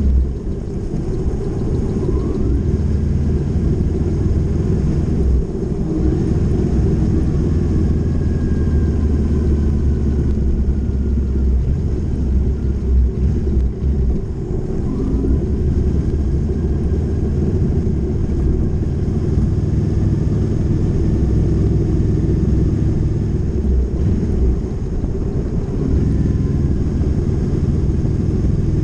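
Motorcycle being ridden on the open road: a steady low engine note with a heavy rumble, and a few brief rises and falls in pitch as the revs change.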